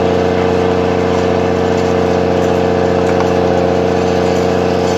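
Snowcat grooming machine's engine running steadily under load, a constant drone with a strong steady hum, heard from inside the cab.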